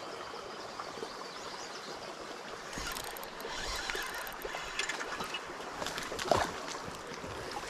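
Steady rush of water over a small creek spillway. From about three seconds in, a run of clicks and splashes as a small largemouth bass is brought in.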